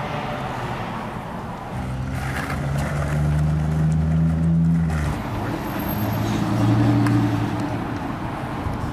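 A motor vehicle's engine running with a steady hum. About five seconds in, the sound changes abruptly to a different steady hum.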